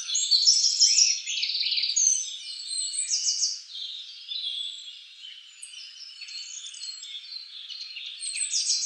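Many birds chirping and singing at once, a dense chorus of quick overlapping calls and trills.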